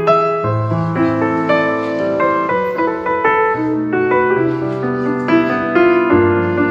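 Background piano music, a gentle melody of overlapping sustained notes.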